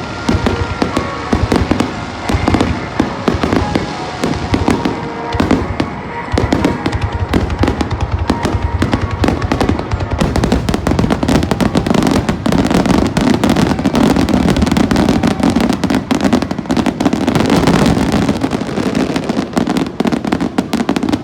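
Fireworks going off in quick succession, booms and crackling overlapping, growing denser from about halfway through.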